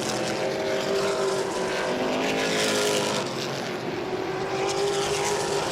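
Modified race cars' engines running at speed around a short oval, a steady, loud engine drone with several held pitches.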